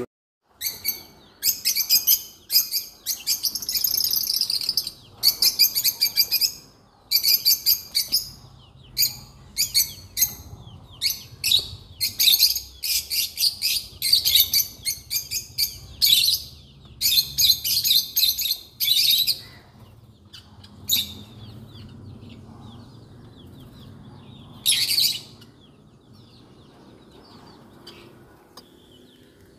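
Small birds chirping and twittering in quick, repeated bursts of high calls for most of the first two-thirds, then thinning out to a single burst later on. A faint low steady hum lies beneath.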